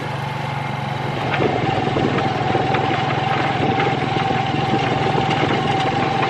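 A small engine running steadily, growing louder over the first second or two, with a steady whine above its low hum.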